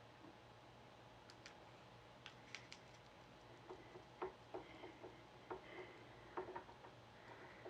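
Faint, scattered small clicks and taps from craft pieces being handled and set in place: a few light high ticks, then a run of soft taps in the second half, over a faint low hum.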